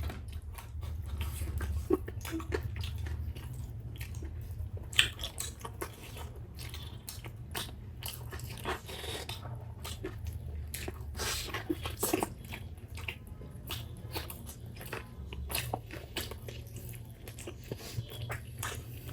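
A person chewing and biting food close to the microphone, with many small, irregular clicks and crunches.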